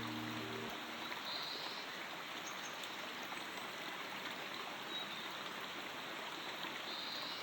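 Steady rushing of a flowing stream, the nature-sound layer of a relaxation soundtrack. Low sustained music notes die away in the first second.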